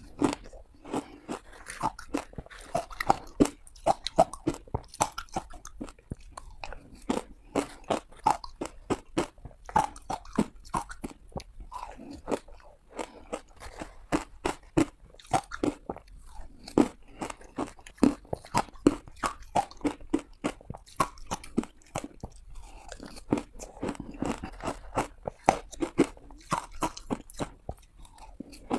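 Ice being bitten and crunched between the teeth, a dense, uneven run of sharp crunches, several a second.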